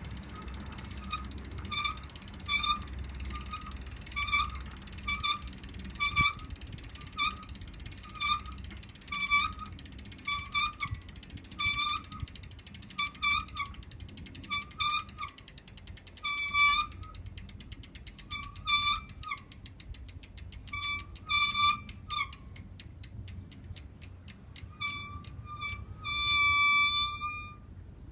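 Rear wheel of a single-speed city bicycle squeaking in a steady run of short, high squeaks about two a second. One longer held squeal comes near the end. The owner thinks it is most likely the band brake rubbing because the rear rim is slightly bent.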